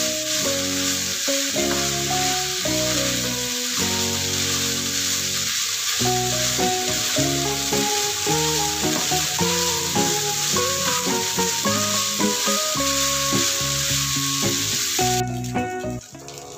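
Rice and mushrooms sizzling in a hot frying pan as they are stir-fried with a spatula, under background music of held melodic notes. The sizzling cuts off near the end.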